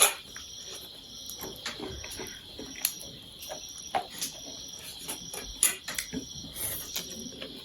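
Crickets chirping in a steady rhythm, about two chirps a second, over a constant high insect drone. Scattered short clicks of eating utensils and chewing sit over it, the sharpest right at the start.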